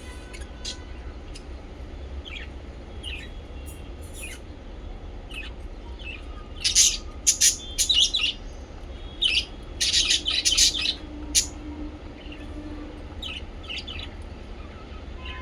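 Small pet parrots chirping: scattered short, high chirps, with a louder run of sharp calls through the middle, over a steady low hum.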